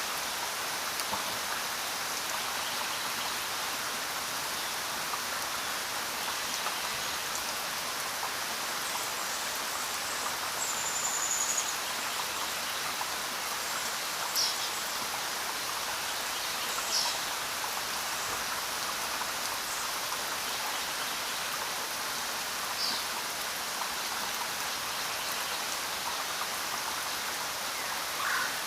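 Steady rain falling, an even hiss of many drops. A few short, faint high chirps cut through now and then.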